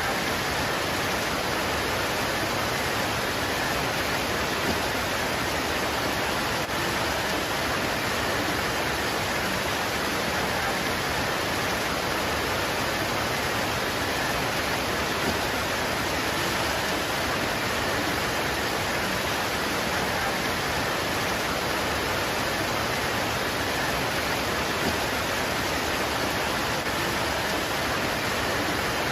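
Steady heavy rain pouring on foliage, an even hiss with no distinct drops standing out.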